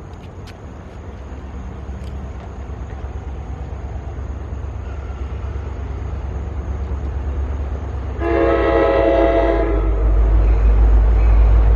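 Approaching commuter train: its locomotive's low rumble grows steadily louder, and about eight seconds in it sounds one horn blast lasting about a second and a half.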